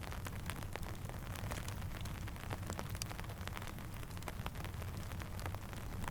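Steady rain mixed with a crackling campfire: many scattered sharp pops and ticks over an even hiss and a low rumble.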